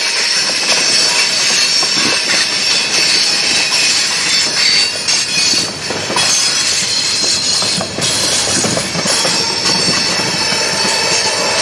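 Freight train cars rolling past, steel wheels squealing on the rails with a steady, high ringing and the clatter of the cars over the track.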